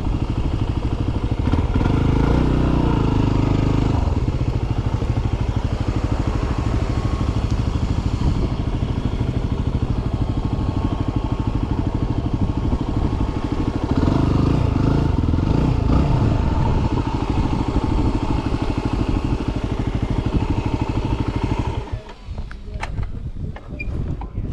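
Yamaha WR250R's single-cylinder four-stroke engine running as the dirt bike is ridden slowly, its pitch rising and falling with the throttle twice. The engine shuts off near the end, leaving a few light clatters.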